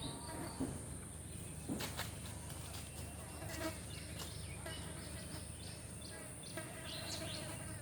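Insects droning steadily at a high, even pitch, over a low hum, with a few faint animal calls and clicks coming and going.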